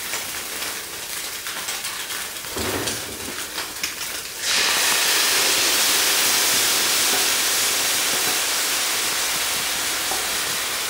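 Tofu frying in olive oil in a skillet, a light crackling sizzle. About four and a half seconds in, the coconut-milk and red curry paste sauce goes into the hot pan and a loud, steady sizzling hiss suddenly takes over.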